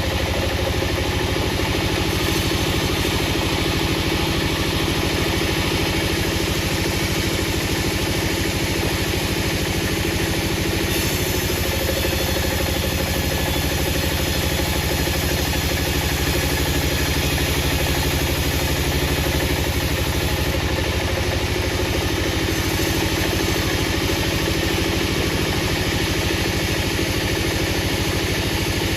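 A heavy engine or machine running steadily at a constant speed, with a dense, even hum; the higher sound changes character about 11 and 20 seconds in.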